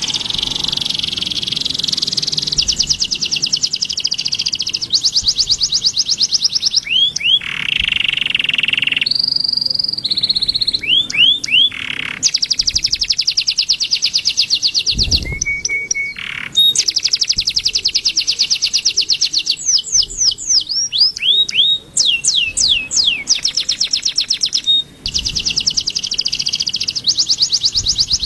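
A bird singing loudly in long, very fast high trills, broken by clear whistles that slide down in pitch, sometimes several in quick succession.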